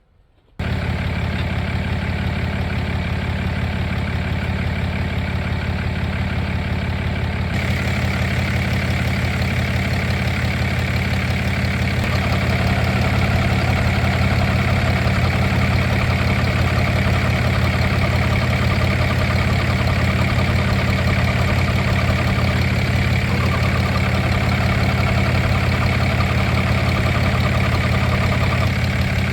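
A vehicle engine idling steadily, coming in abruptly about half a second in.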